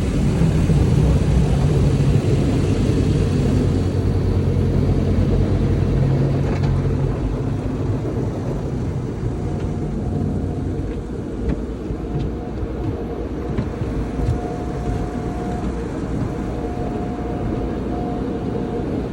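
Automatic car wash machinery heard from inside the car's cabin: a loud, steady rumble with a deeper drone for the first several seconds, and a steady whine that cuts in and out from about halfway.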